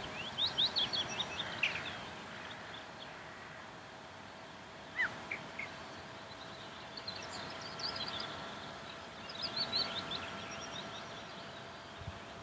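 Small songbirds chirping in several short bursts of quick, high notes, over steady open-air background noise and a faint steady hum.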